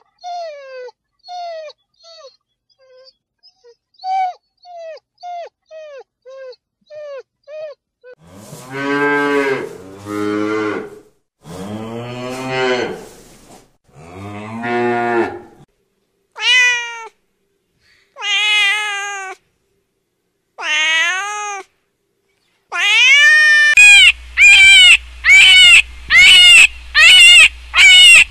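A kitten mewing over and over in short, high, falling mews, then a bovine lowing in four long, deep moos. After that come three rising calls from another animal, and near the end a rapid run of loud, repeated calls, about two a second, over a low hum.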